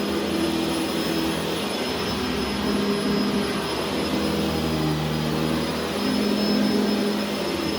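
A vacuum motor running steadily with a high whine. Its lower hum wavers up and down in pitch and loudness.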